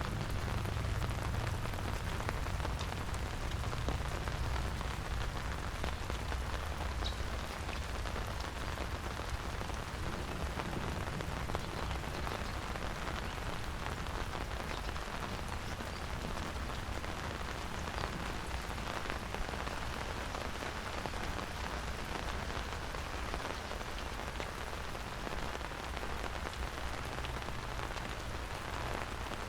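Steady rain falling and pattering on surfaces, an even hiss of many drops, with a low rumble underneath that is strongest near the start.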